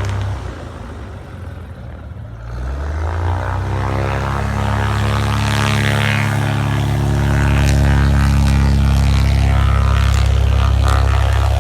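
Propeller aircraft engine running up: a low drone that rises in pitch about three seconds in, then holds steady and grows louder.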